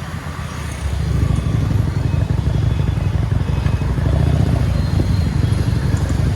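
Motorcycle riding on the road, its engine and low wind rumble on the phone's microphone; the rumble gets louder about a second in and then holds steady.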